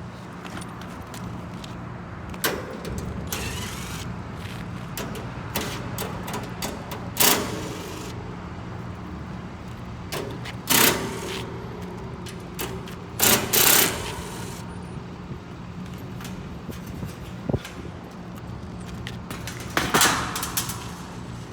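Steady low machinery hum, interrupted by several brief, loud, noisy bursts: about two and a half, seven, eleven, thirteen and twenty seconds in.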